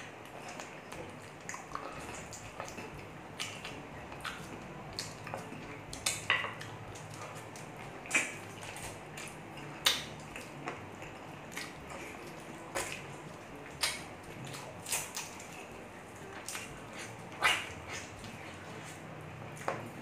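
Close-miked eating sounds: a man chewing and gnawing meat off pork ribs by hand, with irregular wet lip smacks and mouth clicks, a few of them much louder than the rest.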